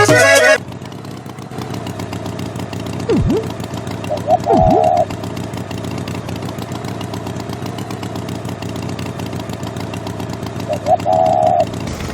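Farm tractor engine running steadily after the music cuts off about half a second in. A short, higher-pitched tone sounds twice over it, about four seconds in and again near the end.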